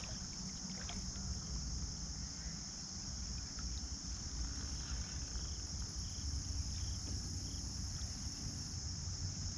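Steady chorus of insects, a constant high-pitched drone, over a low rumble, with a few faint clicks.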